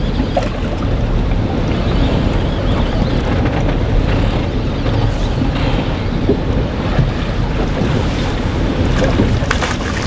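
Strong wind of around 20 knots rumbling steadily on the microphone on a small boat at sea, with the sound of the water around it.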